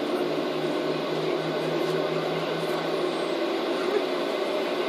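Steady airliner cabin noise: engines and air conditioning running, with a low pulsing tone that stops about three seconds in.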